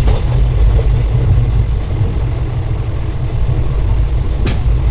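Steady low rumble of a moving passenger train, with a sharp click about four and a half seconds in.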